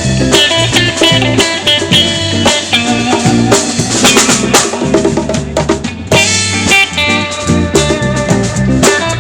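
Live band playing an instrumental passage: drum kit with rimshots and bass drum under electric guitar and bass.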